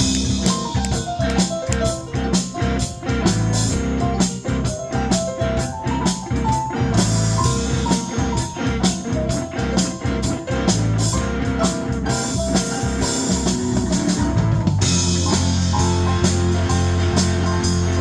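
Instrumental break of a blues-rock song: guitar lines over bass and a drum kit keeping a steady beat. About fifteen seconds in the drumming thins out under a long held bass note.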